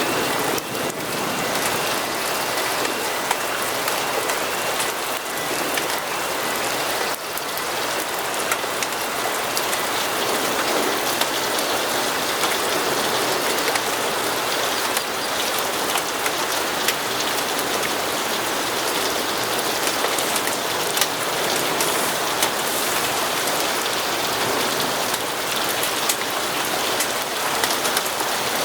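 Steady rain falling on a hard surface, an even hiss scattered with many small sharp drop ticks.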